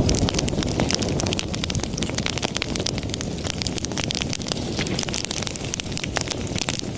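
Wood fire burning with a steady low rumble of flames and dense, irregular crackling and snapping pops.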